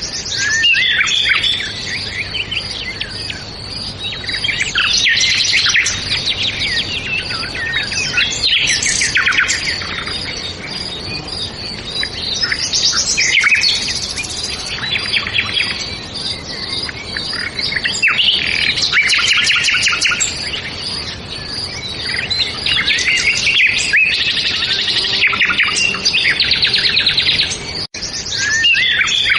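A chorus of many songbirds chirping and trilling over one another, with calls overlapping continuously. The sound cuts out for an instant near the end.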